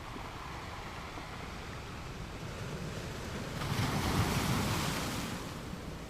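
Ocean surf: a steady wash of waves, with one wave surging in louder about three and a half seconds in and fading away near the end.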